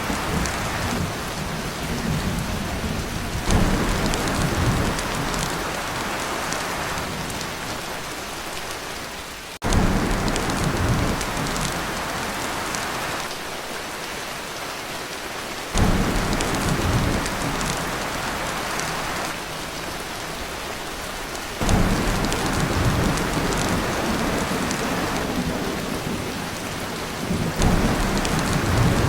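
Heavy rain drumming steadily on a tin roof, with low thunder rumbles that start suddenly about every six seconds and fade away, five times in all.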